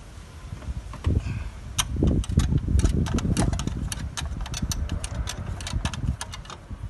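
Diesel engine running with a low rumble that strengthens about two seconds in, overlaid by a rapid, irregular run of sharp clicks and knocks.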